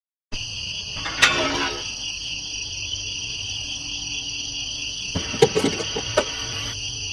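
Insects, such as crickets, chirring in a steady, high, slightly pulsing drone. A few short knocks sound about a second in and again near the end.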